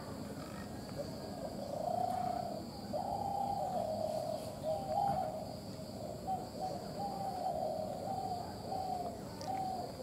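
A bird's low hooting calls, short notes repeated in quick runs, over a steady high-pitched drone.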